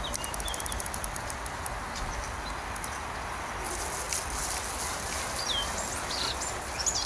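Steady outdoor background noise with a low rumble, with a few faint, short bird chirps, mostly in the second half.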